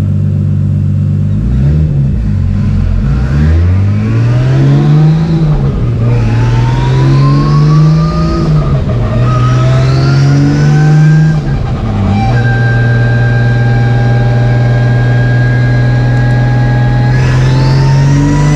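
Turbocharged car engine running a pull on a chassis dyno: it revs up with rising pitch and drops back sharply three times, about 5, 9 and 12 seconds in, as it shifts up. It then holds a steady speed and starts climbing again near the end, with a high whine rising along with the revs.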